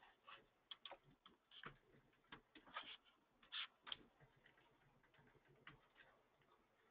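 Faint computer keyboard typing: irregular, closely spaced key clicks, some in quick runs, with short gaps.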